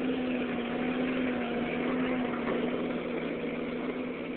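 1949 Ford 8N tractor's four-cylinder flathead engine running as the tractor climbs a hill: a steady engine hum that grows slightly fainter in the second half.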